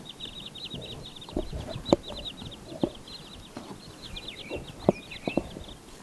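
A bird giving a long, rapid high trill of quick even notes, slipping lower near the end. A few dull knocks sound over it.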